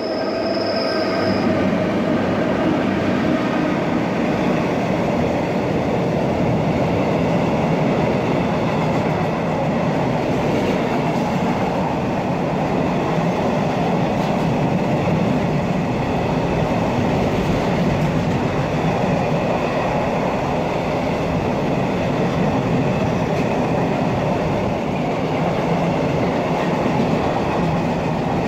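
Container freight train passing at speed: a loud, steady rumble of wagon wheels running on the rails.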